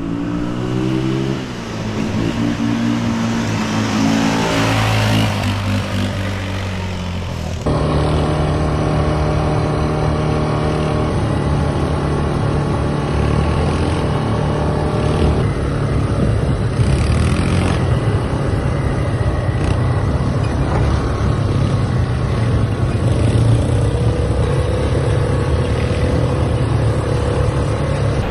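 Motor vehicle engine running, changing pitch as it revs in the first several seconds, then cutting abruptly about eight seconds in to a steadier drone with road noise.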